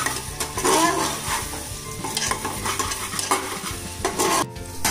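Metal spatula stirring and scraping onions and ginger-garlic paste frying in oil in an aluminium pressure cooker, under a steady sizzle, with repeated scrapes against the pan and a short break near the end. The paste is being fried down (bhuna) until it is cooked through.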